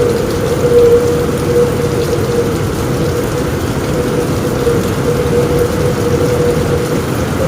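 Heavy rain drumming steadily on a roof, a dense even patter weighted toward the low end, with a steady hum-like tone running under it.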